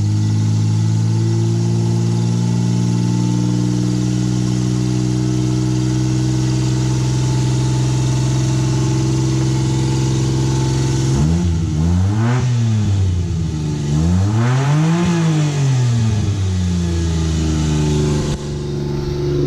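A 1992 Autozam Scrum (Suzuki Carry) kei truck's small three-cylinder engine idling steadily, then revved twice, rising and falling each time, about halfway through and again a few seconds later, before settling back to idle.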